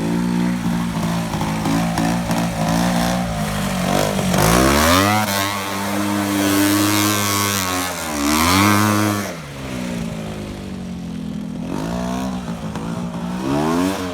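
Tractor engine running, then revved up hard about four seconds in and held at high revs for about four seconds before dropping back. It revs up again briefly near the end.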